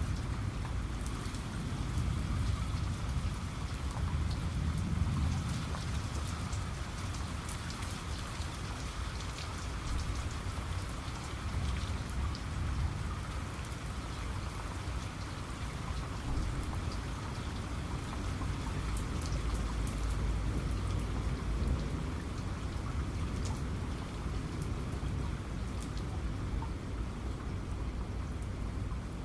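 Steady heavy rain, with single drops striking close by, over a low rumble of distant thunder that swells twice.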